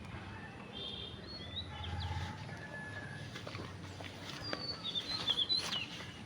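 Birds chirping: short, high chirps and whistles, more of them in the second half, over a faint outdoor background.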